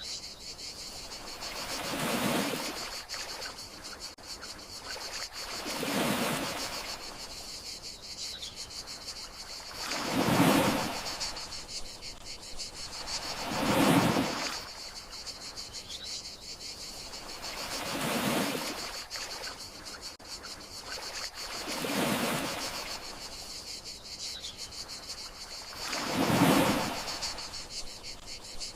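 Gentle sea waves washing in and out, a soft swell about every four seconds, over a steady high chirring of crickets.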